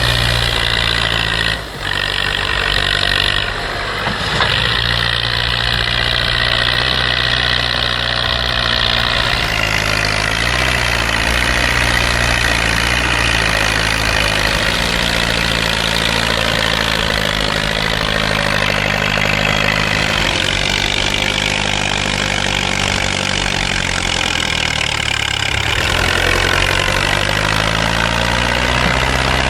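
Lamborghini tractor's diesel engine running steadily, its revs dipping and rising a few times.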